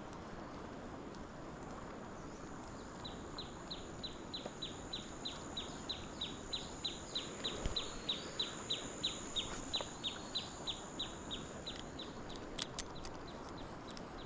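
A bird calling: a long, even series of short high notes, about three a second, growing louder and then fading away.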